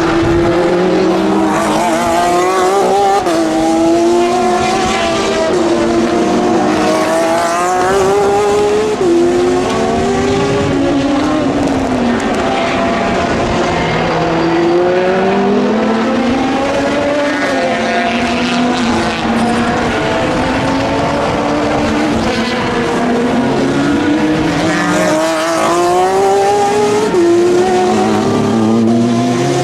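Several racing car engines at high revs, overlapping as cars pass. Their pitch climbs through each gear and drops back at every upshift, over and over.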